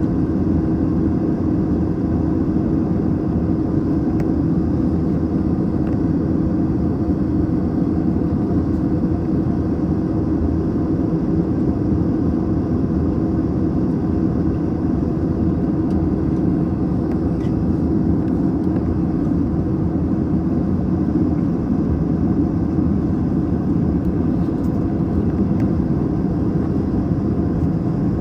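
Steady airliner cabin noise inside an Airbus A321 in flight: a constant rumble of engines and airflow with a steady low hum running through it.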